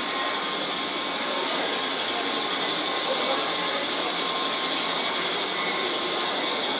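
Steady whirring hum of an electric train standing at a station platform, with a constant high-pitched whine over it.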